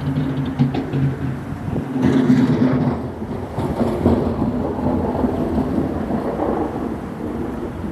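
A motor's steady low hum over a continuous rushing noise, swelling about two seconds in and easing off a second later.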